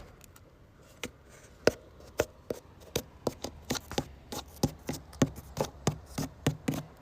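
A rapid, irregular series of sharp knocks that sound like wood being struck, sparse at first and then about three or four a second.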